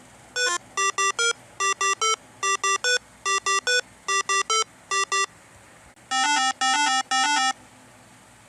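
A ringtone-like melody of short, clear electronic-sounding beeps in quick groups of three, repeated several times, then three longer, lower tones near the end.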